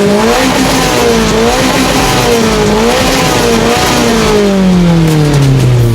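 Car engine revving in quick repeated blips, its pitch rising and falling, then a long steady fall in pitch as the revs drop off near the end.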